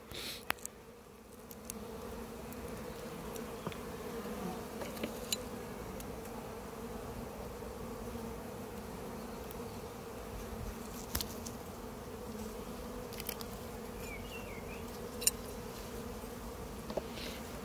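Honey bees from an opened hive buzzing: the steady, even hum of the colony. There are a few brief sharp clicks over it.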